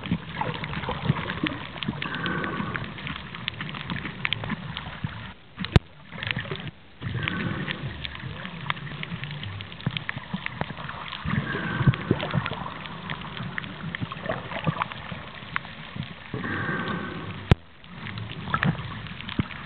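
Water sloshing and gurgling around a camera held underwater while snorkeling, with many small sharp clicks and short bursts of bubbles.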